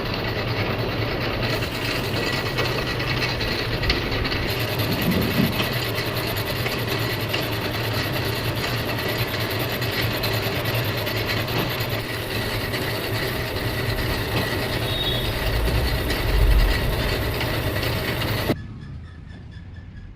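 Lathe running, taking a light finishing (polish) cut on a rotor: a steady mechanical grinding noise over a low hum, which stops abruptly near the end.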